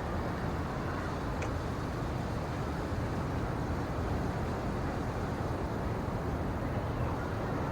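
Steady low rumbling background noise with no clear pitch or rhythm, and a faint click about a second and a half in.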